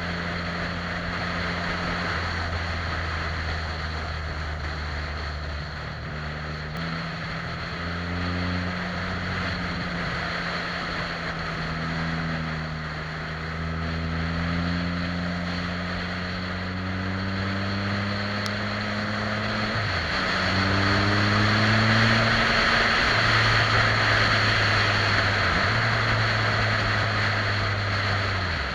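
Yamaha FZ-09 motorcycle's inline-three engine under way, its pitch climbing through the revs and stepping down at several gear changes. Steady wind rush over the helmet rises in the second half.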